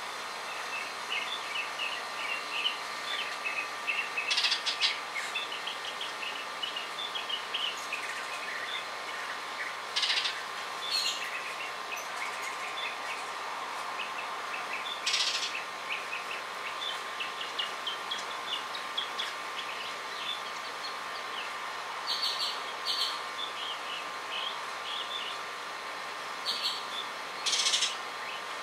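Birds calling: a steady scatter of short, high chirps with several harsher, rasping calls of about half a second each, the loudest sounds, spaced through. A faint steady high tone runs underneath.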